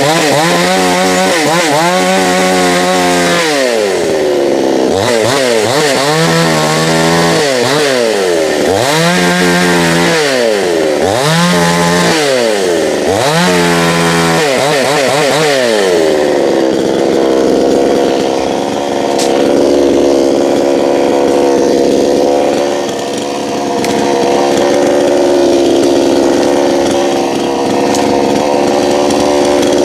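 Gasoline chainsaw engine revved up and down repeatedly, about six times, then held at high revs steadily from about halfway through.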